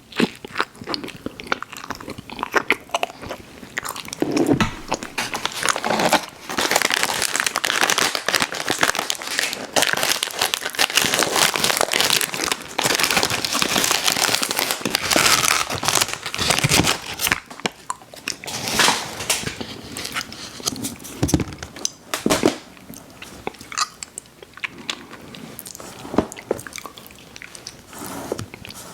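Close-miked eating of ice cream sandwiches: bites, crunching and wet chewing, with dense crackling through the middle and a few separate loud crunches later.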